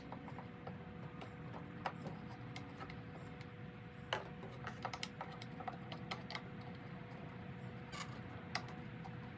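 Faint, scattered clicks and taps of hard parts being handled while a component is fitted back onto a Stihl BR340 leaf blower, over a faint steady hum.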